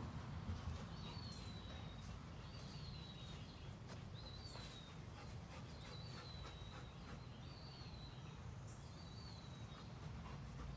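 A bird repeating a short, high, falling whistled note about every second or so, over a faint low background rumble with a few light clicks.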